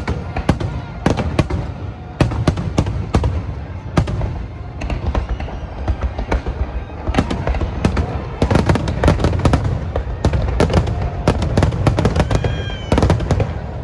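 Aerial fireworks shells bursting in rapid, overlapping succession: many sharp bangs and crackles over a continuous low rumble, with music playing underneath.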